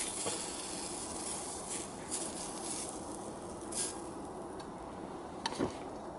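Food sizzling in a cast-iron skillet, a steady hiss with a few short clicks or taps.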